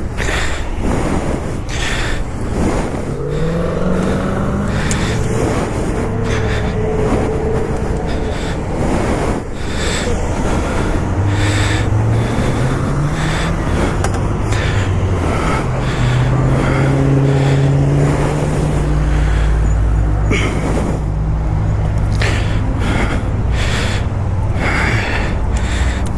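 Motorcycle engine running while riding, its pitch climbing and holding in stages as it accelerates through the gears, under heavy wind buffeting on the microphone.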